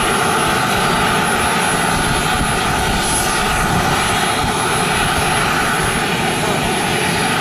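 K-102 model jet turbine of a radio-controlled MB-339 running steadily: a constant rushing roar with a thin high whine on top. Strong wind buffets the microphone underneath.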